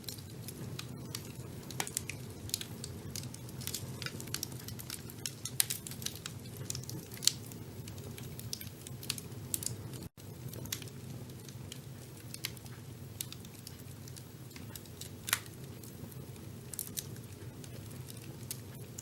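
A fire burning in a fireplace: a steady low rumble with irregular crackles and occasional sharper pops, and a momentary break in the sound about ten seconds in.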